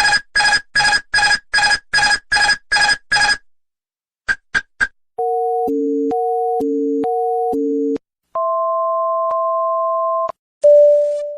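A series of airliner cockpit aural warning tones. First comes a rapid beeping tone repeated about eight times, then three short beeps, then an alternating high-low two-note alarm, then a steady two-note tone. Near the end two chimes sound, each fading away.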